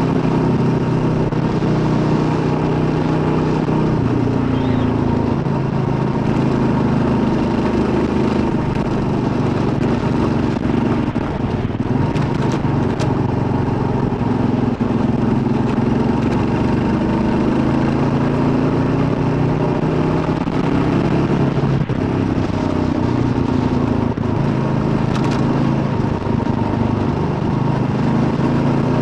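Kawasaki KLR650's single-cylinder four-stroke engine running steadily while the motorcycle is ridden, its pitch rising and falling a little with the throttle.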